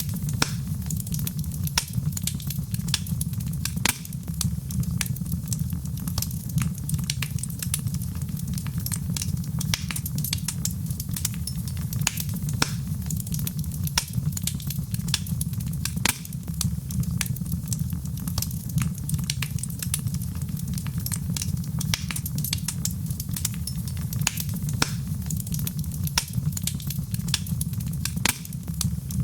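Fireplace fire crackling, with frequent irregular sharp snaps over a steady low rumble of the flames.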